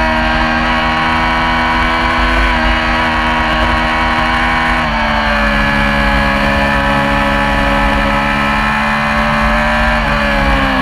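Yamaha R6 inline-four racing engine running hard at high, fairly steady revs. Its pitch steps down a little about five seconds in and dips briefly near the end.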